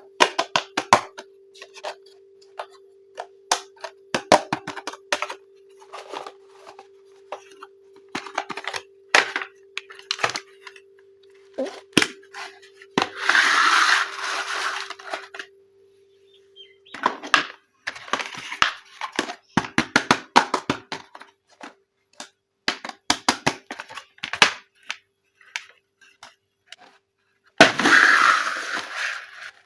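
Small plastic toy parts and packaging being handled: a run of sharp plastic clicks and taps, broken by three longer bursts of rustling packaging, a faint steady hum beneath the first half.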